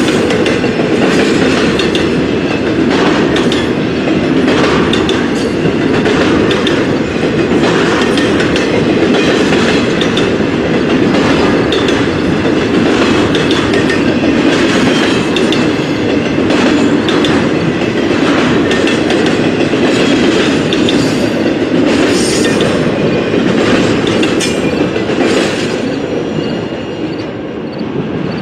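Freight train rolling past, its steel wheels clicking over rail joints in an uneven run over a steady rumble, the noise easing off near the end.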